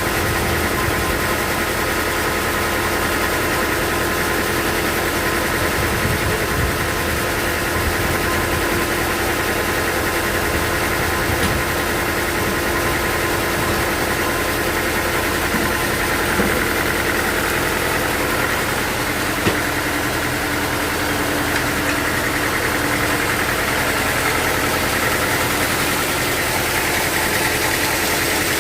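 Sawmill machinery running steadily: a constant engine-like hum with a steady whine above it, unchanging throughout.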